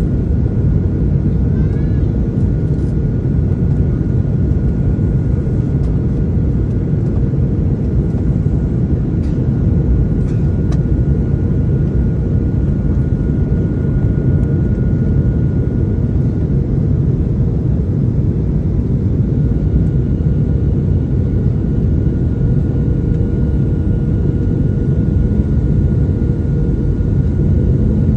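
Jet airliner cabin noise: a steady low rumble of engines and airflow with a faint steady whine above it.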